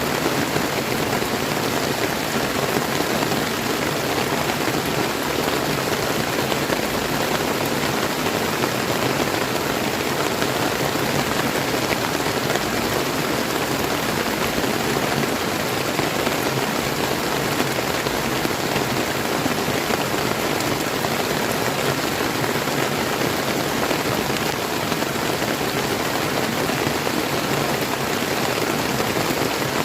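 Steady rain falling together with a river's flowing water, an even, unbroken hiss.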